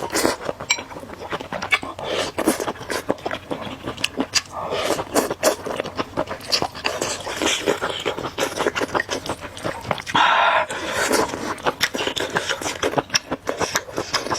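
Close-up eating sounds of spicy noodle soup: noodles slurped and chewed, with many quick wet mouth clicks and a louder slurp or sharp intake of breath about ten seconds in.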